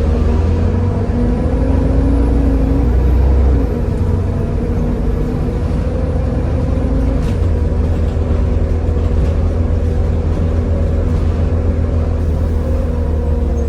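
Volvo B7TL double-decker bus's six-cylinder diesel engine running hard at a steady high speed, a loud even drone with a held tone; the deepest part of the drone eases a little about three and a half seconds in.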